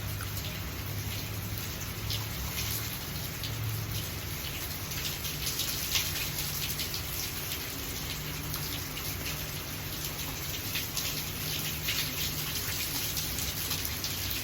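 Steady rain, with many individual drops ticking close by on nearby surfaces.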